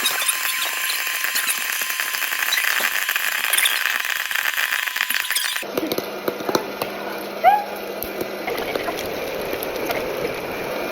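Popcorn popping in a covered pot on the stove: a dense, steady crackle of hot oil sizzling and kernels popping against the lid. About halfway through the sound turns abruptly duller and more muffled.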